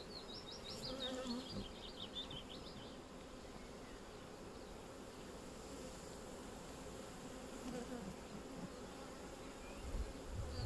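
Honeybees buzzing steadily around an open hive during a frame inspection. A bird's rapid high trill sounds over it in the first few seconds.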